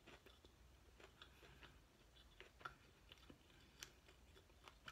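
Faint chewing with the mouth closed: a person eating a soft chicken biscuit sandwich, with a few soft wet mouth clicks.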